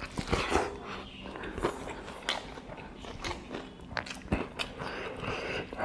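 Close-miked chewing of a mouthful of curry-soaked rice eaten by hand, with many irregular mouth clicks and smacks.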